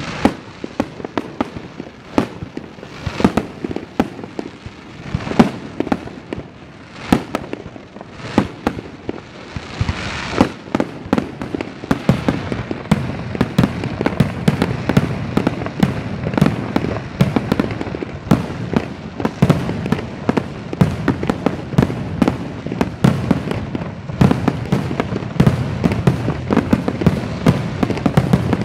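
Fireworks display: aerial shells bursting with sharp bangs, separate bangs every second or so at first, then from about ten seconds in a dense, rapid run of bangs and crackling.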